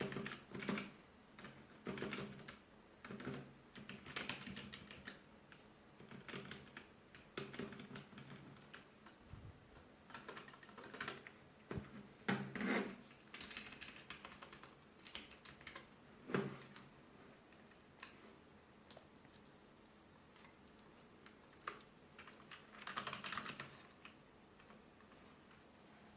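Typing on a 2.4 GHz wireless office keyboard: key clicks in short irregular bursts with pauses between them, thinning out in the second half before a last burst near the end.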